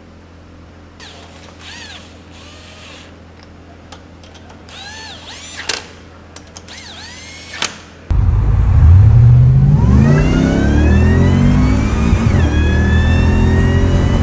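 A handheld impact wrench runs lug nuts on in a few short whirring bursts. About eight seconds in, the Harrop-supercharged LS V8 takes over, loud under hard acceleration: the revs climb with a high whine rising alongside, drop once at an upshift of the built 4L60E automatic, then climb again.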